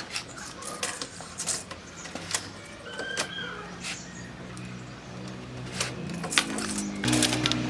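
Scattered sharp clicks and light knocks, like tools and small hard objects being handled in a workshop, with a low hum coming in and growing louder near the end.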